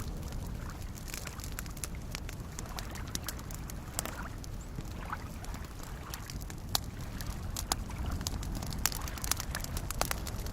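Campfire crackling, with sharp pops scattered through it and more of them in the second half, over soft lake waves lapping with a steady low wash.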